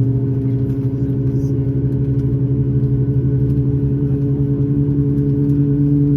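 Boeing 737-9 MAX's CFM LEAP-1B turbofan engines running with a steady low drone of several hum tones over a rumble, rising slightly in pitch and loudness near the end.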